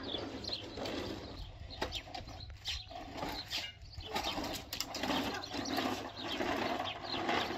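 Outdoor birds calling, with a few sharp knocks or clicks in the first half.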